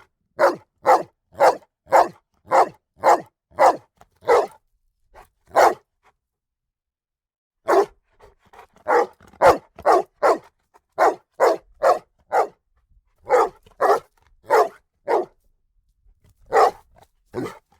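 A dog barking over and over, about two barks a second. A pause of about two seconds comes roughly six seconds in. A shorter pause comes near the end, before a few more barks.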